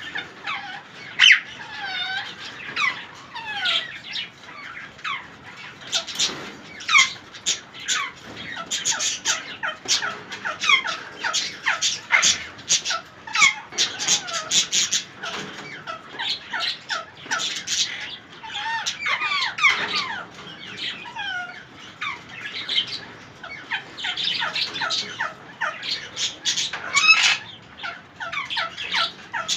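Plum-headed parakeets calling in a steady run of short, sharp squawks, many of them sweeping down in pitch.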